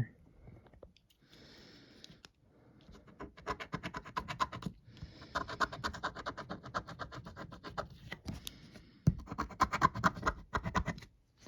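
Scratch-off lottery ticket being scratched: quick back-and-forth scraping strokes that rub off the coating over the symbols. They come in three runs with short pauses between them.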